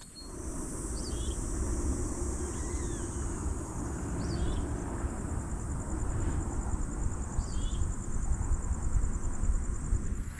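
Outdoor ambience: a steady, high, pulsing insect trill, with three short bird chirps spaced a few seconds apart, over a low rumbling noise.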